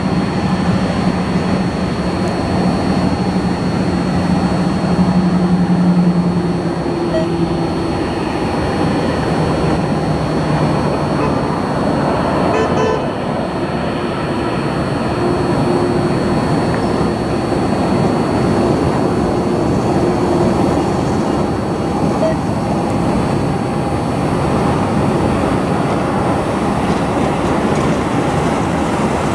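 Business jet taking off, its engines giving a steady jet noise with a thin high whine throughout and a lower tone that falls away after about six seconds.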